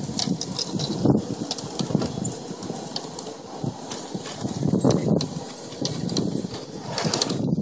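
G scale model train running on its track: a low rumble with many uneven clicks.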